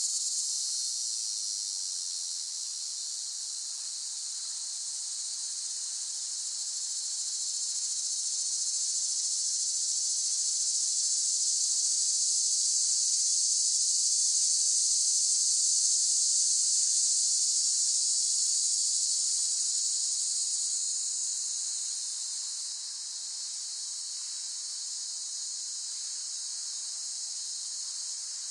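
Cicadas buzzing in a continuous high-pitched drone that swells to its loudest around the middle and eases off somewhat later on.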